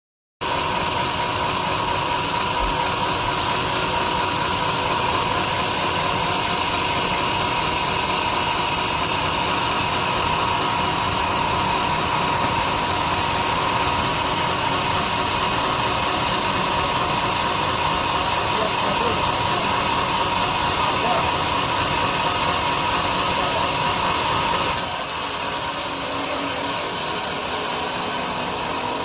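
Large sawmill bandsaw running, a loud steady machine noise with a steady high whine. About 25 seconds in there is a sharp knock, after which the sound changes slightly.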